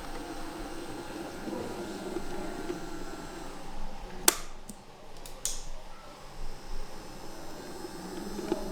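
Steady background murmur with one sharp click about four seconds in, followed by three fainter clicks over the next second or so.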